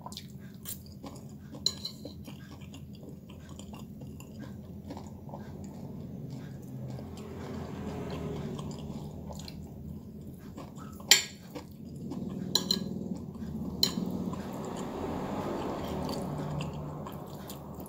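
A person chewing a mouthful of fried noodles with soft mouth sounds, and a few sharp clinks of a metal spoon and fork against a ceramic plate, the loudest about eleven seconds in.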